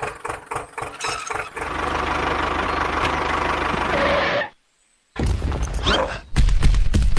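A small engine: a rapid clatter, then a steady run with a fast, even pulse for about three seconds. It cuts off abruptly, and after a short gap a louder, lower rumble starts.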